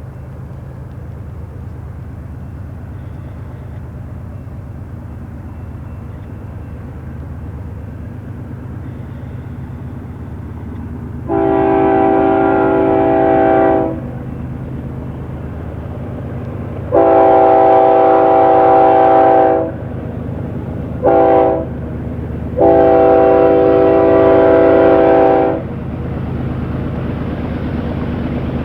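Diesel freight locomotive approaching with a low, steady rumble, then sounding its multi-chime air horn in the long, long, short, long pattern of the standard grade-crossing signal.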